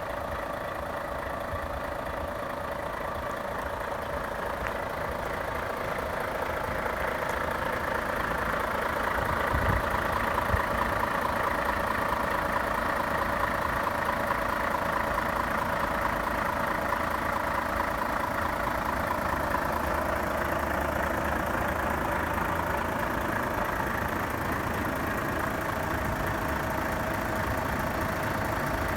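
Volvo FH500's 12.8-litre straight-six diesel idling steadily, growing a little louder over the first ten seconds.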